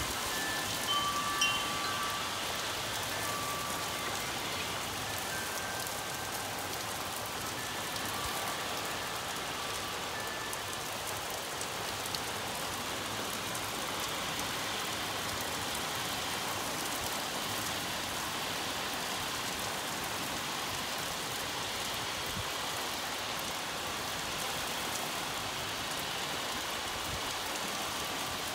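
Heavy rain pouring steadily, with hanging metal tube wind chimes ringing a few scattered notes, mostly in the first ten seconds or so.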